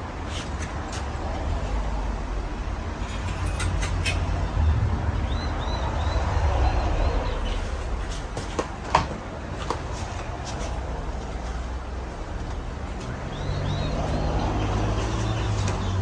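Ceiling fan with a 188mm spinner motor running, a low rumbling rush of air that swells and eases, with a few sharp clicks and faint high chirps.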